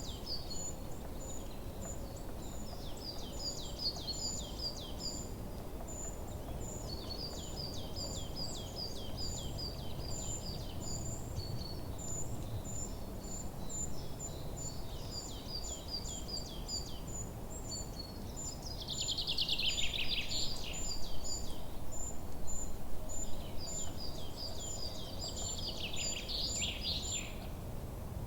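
Forest birdsong: songbirds singing repeated trilled phrases of quick falling notes, louder in two bursts in the second half, over a steady fast series of high chirps and a low background rumble.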